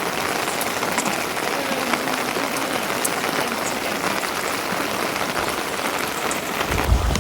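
Steady rain falling: an even hiss with scattered faint drop ticks. A low rumble comes in just before the end.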